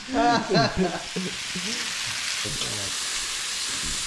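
Sliced mushrooms sizzling steadily in a hot griddle pan while being turned with forks. A man's voice, laughing, is heard briefly at the very start.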